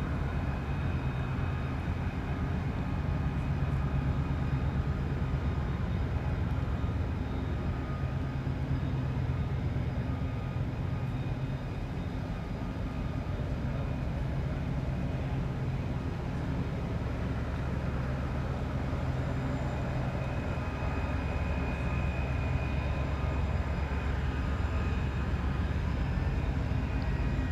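Towboat's diesel engines running with a steady low drone as the boat passes.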